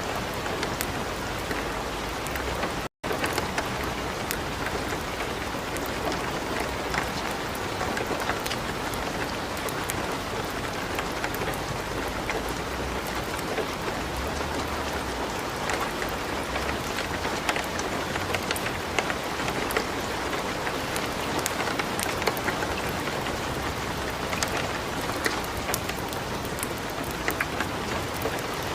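Steady light rain mixed with the crackle of a wood fire in a fireplace, with scattered sharp pops and ticks. The sound cuts out for a split second about three seconds in.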